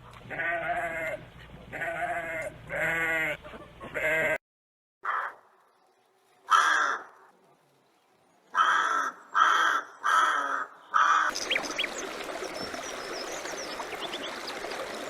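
Sheep bleating four times in a row, each a wavering call. After a brief silence come several short, harsher animal calls, the last four in quick succession. Near the end a steady noisy outdoor background with faint bird chirps takes over.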